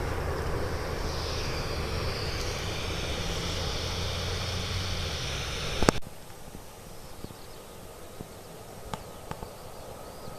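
Jet airliner engines running: a steady rumble with a high whine that drifts slightly in pitch. About six seconds in, the noise cuts off abruptly at a sharp click, leaving a faint background with a few scattered clicks.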